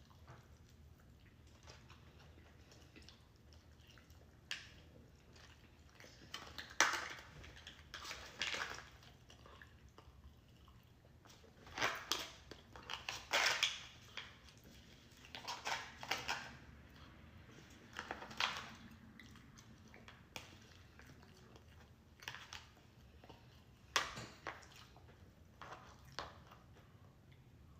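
Faint close-up chewing and mouth sounds of a person eating, coming in short scattered bursts every few seconds.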